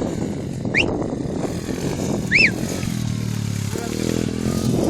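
A 125cc motocross motorcycle engine running, with two short high chirps that rise and fall, about a second in and again about two and a half seconds in.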